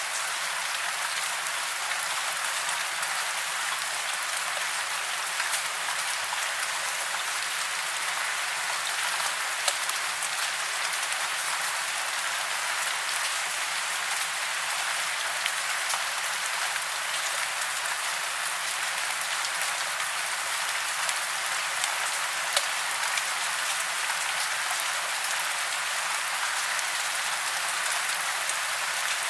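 Steady rain falling, a constant hiss with scattered close drop ticks on top.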